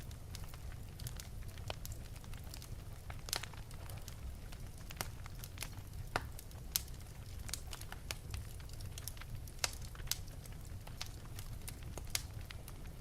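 Fire in an open fireplace crackling, with frequent irregular sharp pops over a steady low rumble.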